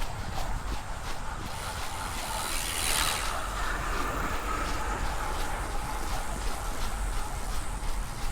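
A runner's footsteps at about three a second, over a low rumble of wind on the microphone; about three seconds in, a hissing whoosh swells and fades, like something passing close by.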